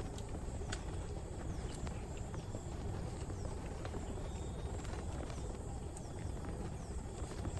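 Puppy suckling at its mother dog's teats: scattered short smacking clicks over a steady low rumble.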